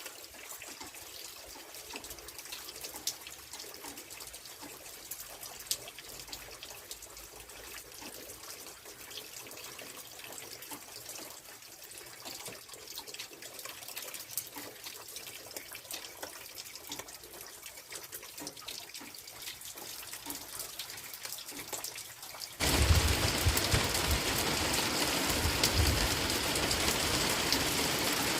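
Rain water dripping and trickling, with scattered small drop ticks. About three quarters of the way through it cuts suddenly to a much louder, steady rush of water.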